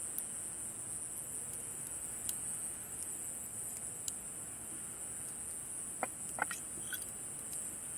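A steady, high-pitched chorus of summer night insects, with a campfire giving a few sharp crackles and pops, the loudest a cluster about six seconds in.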